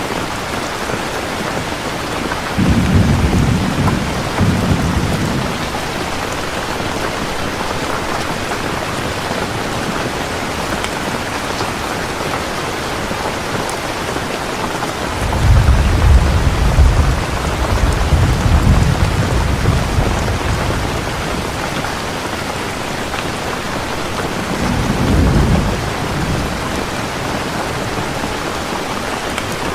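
Steady heavy rain, with low rolling thunder rumbling three times: about three seconds in, a longer roll from about 15 to 21 seconds in, and a short one near 25 seconds.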